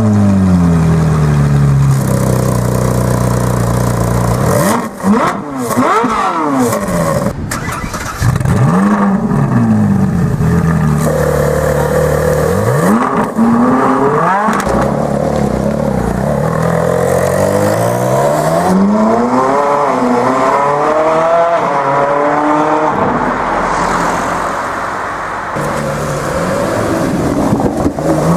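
Ferrari 458 Italia's naturally aspirated 4.5-litre V8 heard at the exhaust: idling, then revved hard several times, each rev shooting up in pitch and dropping straight back, with a longer rise and fall later. It rises again near the end as the car pulls away.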